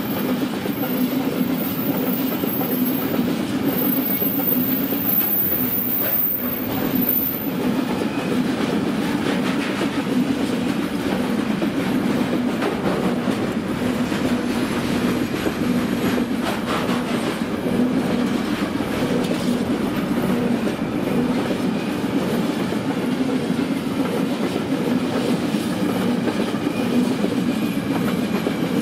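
Container freight train of flat wagons rolling steadily past, its wheels running on the rails in a continuous, even rolling noise.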